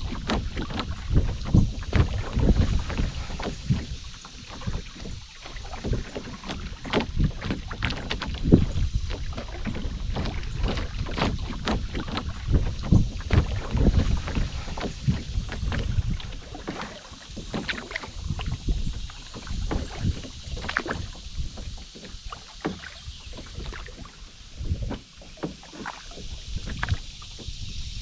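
Canoe on a river: water splashing and lapping around the hull, with many irregular small knocks and splashes. Wind rumbles on the microphone underneath.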